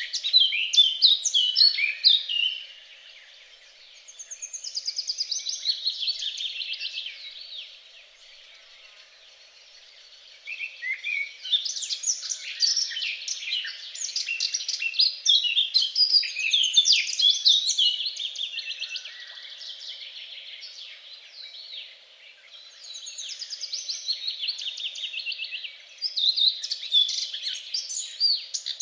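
Songbirds singing: rapid, overlapping phrases of high chirps and trills, easing off briefly a few times between louder bursts.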